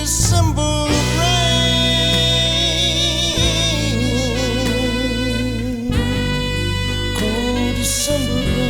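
Blues band music: a saxophone and held, wavering sung notes over a steady band backing.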